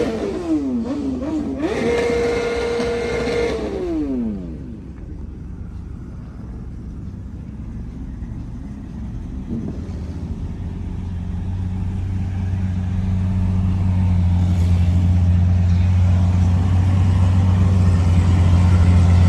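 A car engine revved hard: held high, dropped for two quick blips, held high again, then let fall back. From about ten seconds in, a deep steady engine drone grows louder, as of a car running close by.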